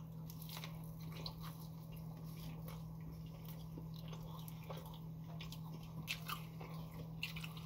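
Close-miked chewing of a mouthful of burger: small wet smacks, squishes and light crunches at an irregular pace, over a steady low hum.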